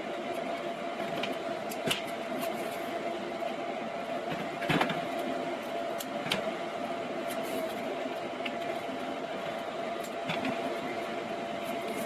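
A steady machine hum with a held mid-pitched tone, broken by a few light knocks and clicks.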